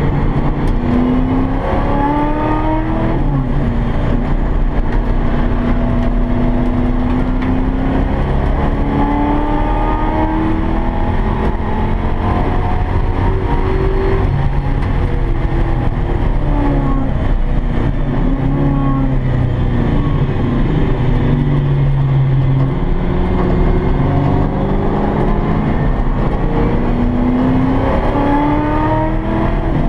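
V8 engine of a stripped Ford Fairmont track car, heard from inside the cabin while it is driven hard on a road course. The engine pitch climbs and drops again and again as it accelerates, shifts and slows for corners, over a steady rush of road and wind noise.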